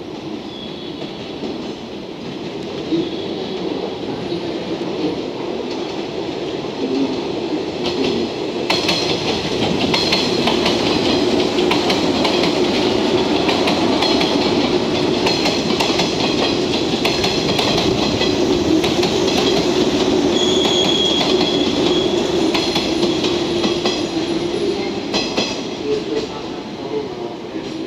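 A JNR 113 series eight-car electric train running past, wheels clacking over rail joints and points, with high wheel squeal. It grows louder about eight seconds in and eases off near the end.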